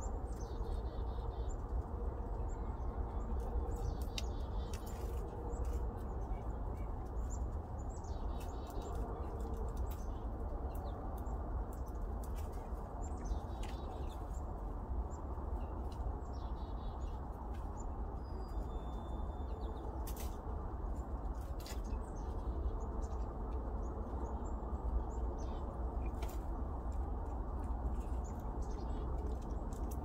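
Small birds chirping now and then, with scattered sharp clicks, over a steady low rumble.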